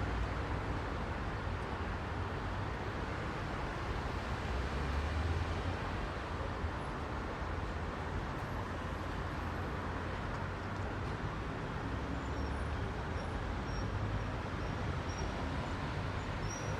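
Heavy rush-hour road traffic: a steady mix of engines and tyre noise with a low engine rumble that swells as heavier vehicles pass, about five seconds in and again near the end.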